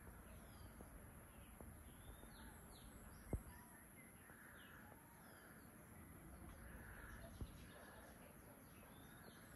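Faint outdoor ambience of small birds chirping in short, quick falling chirps over a low background rumble, with a sharp click about a third of the way in and a smaller click about three-quarters through.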